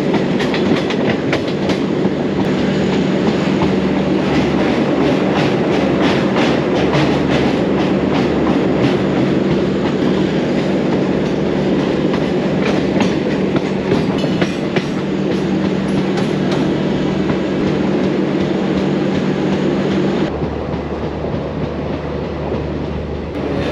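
Garib Rath express coaches running at speed, heard from an open coach door: wheels clattering over the rail joints over a steady rumble and low hum. About twenty seconds in, the sound drops a little and turns duller.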